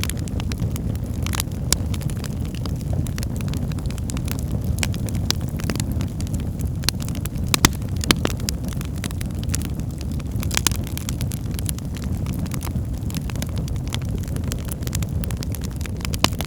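Wood fire burning in a fireplace: a steady low rumble of flames with frequent sharp crackles and pops, a few louder snaps in the second half.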